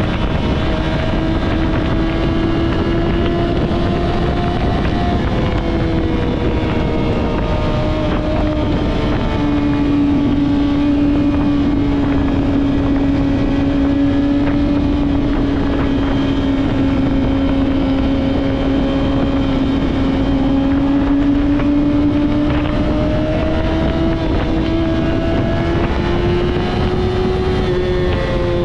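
Yamaha R6 inline-four engine breathing through a Two Brothers full-system exhaust, running at a steady cruise with its note easing down and rising again gently, with a small step in pitch about nine seconds in. Wind rush on the microphone runs underneath.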